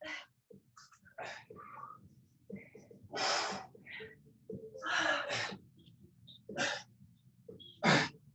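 A person breathing hard during an inchworm push-up exercise, with sharp, forceful breaths about every second and a half.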